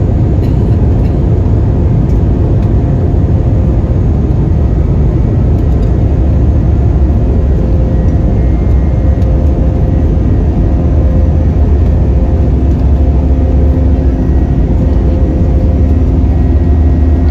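Jet airliner engines and rumble heard inside the passenger cabin during takeoff: a loud, steady low rumble with a faint hum. The rumble strengthens and a second hum comes in about halfway through.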